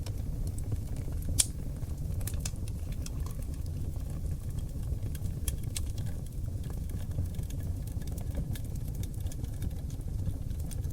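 Seasoned oak logs burning in an open fireplace: a steady low rumble of flames with scattered crackles and one sharp pop about a second and a half in.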